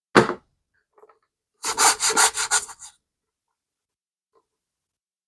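Scrubbing strokes on the leather of a vintage Swiss Army bag being wet-cleaned: one short stroke, then a quick run of about six back-and-forth strokes.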